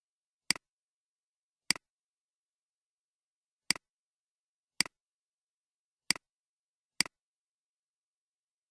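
Computer mouse button clicked six times at irregular intervals, each click a sharp press followed closely by a fainter release, with silence in between.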